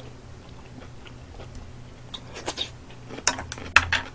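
A person chewing a mouthful of food, with wet smacking clicks of the mouth that grow louder in the second half.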